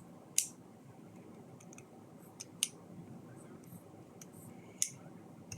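Lego plastic pieces clicking as they are handled: three sharp clicks about two seconds apart, with fainter ticks between them.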